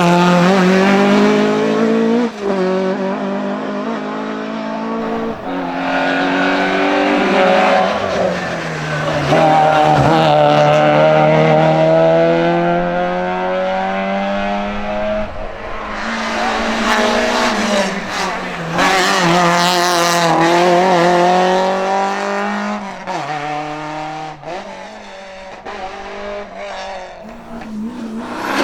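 Racing car engine under hard acceleration, its pitch climbing through each gear and dropping back at the upshifts, with one long pull in the middle. Near the end it grows fainter.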